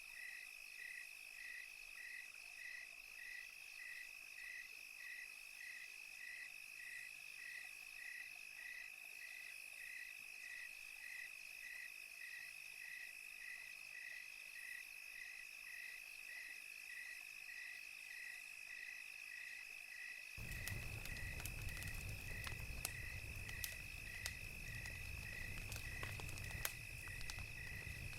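Crickets chirping in an even rhythm, about three chirps a second, over a steady high insect trill. About 20 seconds in, a crackling wood fire joins with scattered sharp pops and a low rumble.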